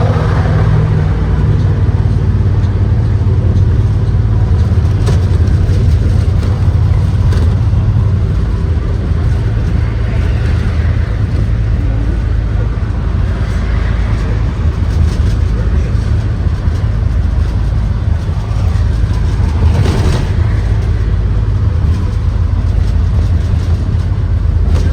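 Interior ride noise of a 2023 Blue Bird Vision school bus under way: its Ford 7.3-litre gasoline V8 and road noise make a steady low rumble, with a few sharp knocks from the body.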